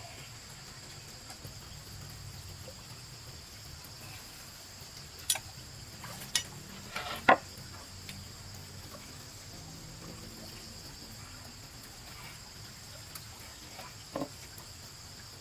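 Steady high-pitched chorus of insects buzzing continuously, with a few short sharp knocks in the middle and one more near the end.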